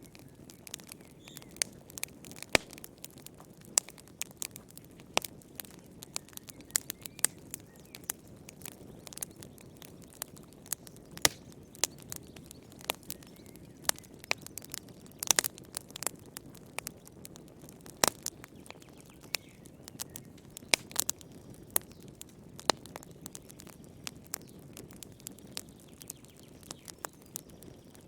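Wood fire crackling: irregular sharp pops and snaps, a few much louder than the rest, over a low steady rustle of burning.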